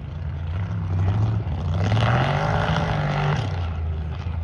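Mega truck engine revving: the pitch climbs about a second in, holds high and loud for over a second, then drops back to a lower run.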